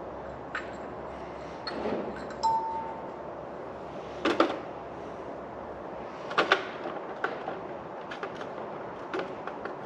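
Loose metal engine parts clinking and knocking as they are worked out of the stripped engine and handled, in scattered separate strikes, with one short metallic ring about two and a half seconds in.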